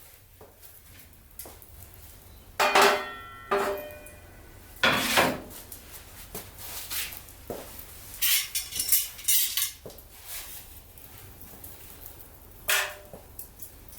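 Metal objects clanking and knocking in scattered bursts, several with a brief ringing tone, with a quick run of clatter about eight to ten seconds in.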